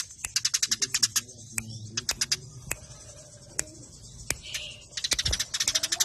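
Eurasian tree sparrows chattering in rapid, tight trains of sharp chirps. The trains thin to scattered single chirps about two seconds in, then crowd back together near the end.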